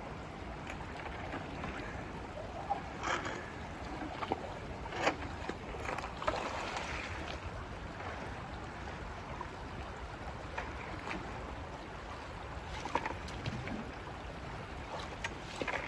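Shallow creek water running steadily, with a few short sharp sounds scattered through it.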